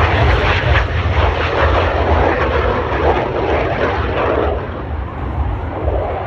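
Yak 110 aerobatic aircraft, a twin-radial-engine plane with an added jet, running its engines hard in a display pass: a loud, steady engine roar with a heavy low rumble, easing off a little about two thirds of the way through.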